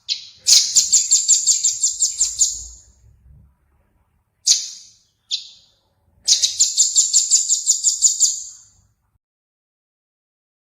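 A small songbird singing in high, fast runs of repeated chirps, about seven notes a second. Each run lasts two to three seconds, with a couple of single notes between the runs.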